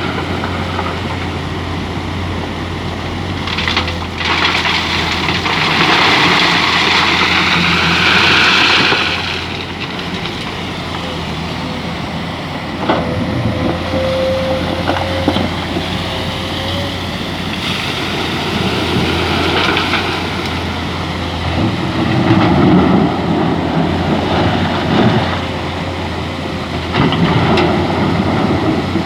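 Excavator's diesel engine running steadily with a thin hydraulic whine. Several times it swells into louder rushes of noise as the machine works, the loudest from about four to nine seconds in.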